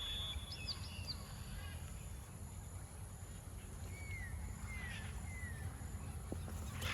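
Quiet outdoor ambience over a low steady rumble, with a few faint bird chirps: a cluster of short high calls about half a second in, and three brief falling chirps a little after the middle.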